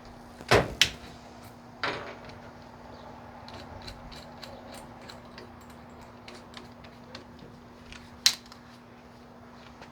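Tools and parts being handled on a workbench: a few sharp knocks and clicks, the loudest about half a second and two seconds in and again near the end, with lighter ticks between them over a faint steady hum.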